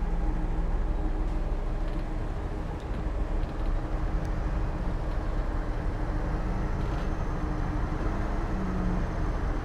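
Heavy diesel earthmoving machinery running steadily, a deep engine drone with a few faint short clanks.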